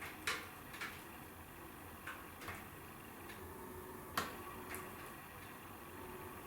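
Wood fire in a fireplace crackling: about six sharp, irregular pops over a soft steady hiss, the loudest just after the start and about four seconds in.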